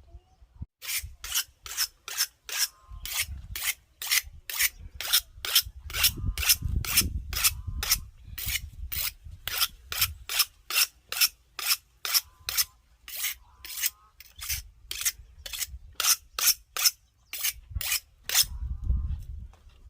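Rhythmic hand scraping strokes, about two and a half a second, each a short harsh rasp, with dull low knocks beneath them; the strokes stop shortly before the end.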